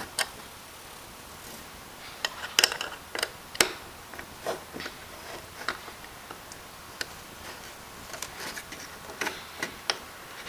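Irregular small clicks and taps of toy truck parts and a screwdriver being handled during assembly, with a cluster of sharper knocks a few seconds in.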